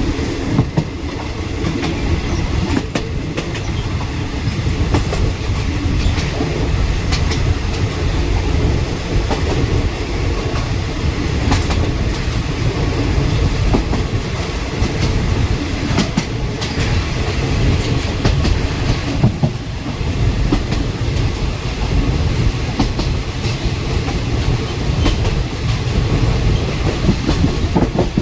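Passenger train running at speed, heard from on board: a steady rumble of the carriage wheels on the rails, with irregular clicks and clacks over rail joints.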